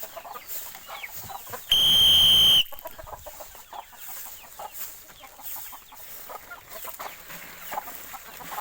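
One loud, steady blast of a whistle lasting just under a second about two seconds in, the call signal for cattle trained to come to the whistle. Chickens clucking throughout.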